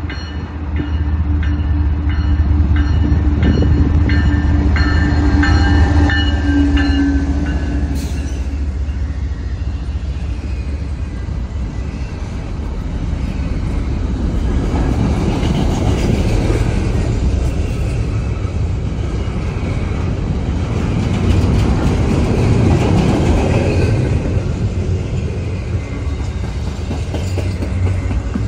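Intermodal freight train passing close. The leading GE ES44DC diesel-electric locomotive's engine drones with steady tones for about the first eight seconds. After that, double-stack container cars roll by with a steady rumble of wheels on rail that swells and eases.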